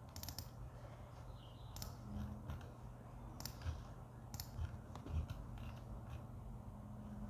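Computer mouse clicks, short sharp clicks scattered irregularly over several seconds, over a faint steady low hum.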